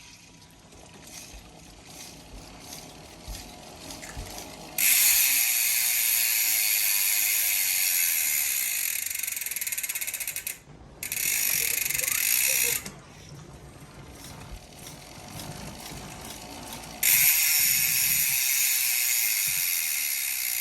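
E*Thirteen LG1R rear hub's freehub buzzing as the wheel freewheels, a sharp, high, rapid ratcheting of the pawls. It starts fainter, then comes in three loud spells: about five seconds in for several seconds, briefly around twelve seconds, and again from about seventeen seconds on, with quieter clicking between.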